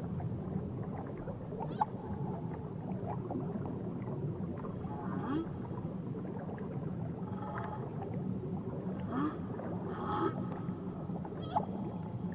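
Whale calls heard underwater: short rising and falling squeals and moans every second or two, with scattered sharp clicks over a steady low hiss of the sea.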